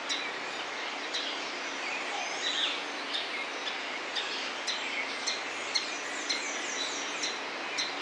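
Bird calls in tropical forest: short, sharp high chirps repeating about twice a second, with a quick run of thin descending notes around the middle, over a steady background hiss.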